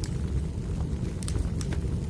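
Wood fire crackling: a steady low rumble with sharp pops and crackles, several in quick succession in the second half.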